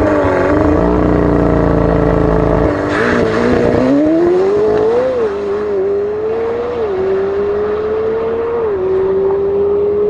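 McLaren 720S twin-turbo V8 with a Capristo exhaust accelerating hard at full throttle. Its note rises steadily and drops back at each upshift, several times, each gear pulling longer than the last.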